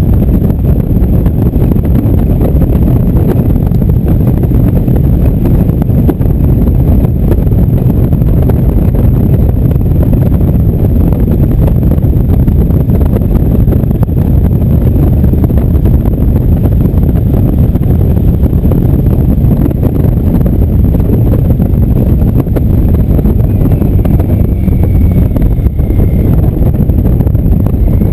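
Indian motorcycle cruising at a steady speed, the engine running under heavy wind rush on the microphone.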